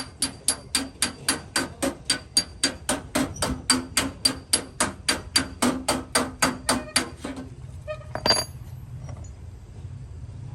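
Hammer tapping steadily on the sheet metal of a Chevrolet Optra's body panel during paintless dent repair, about three taps a second, each with a short metallic ring. The tapping stops about seven seconds in, followed by one louder knock and a steady low hum.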